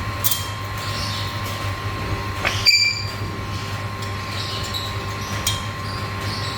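Black-capped lory giving a series of short, high-pitched screeching calls, the loudest about two and a half seconds in, over a steady low hum.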